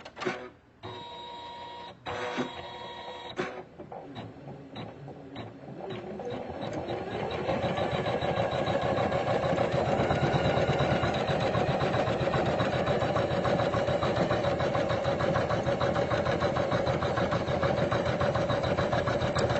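Usha Janome Memory Craft computerized embroidery machine: a few clicks and short beeps, then about six seconds in the machine starts stitching. It speeds up over a couple of seconds and runs on at a steady, rapid needle rhythm.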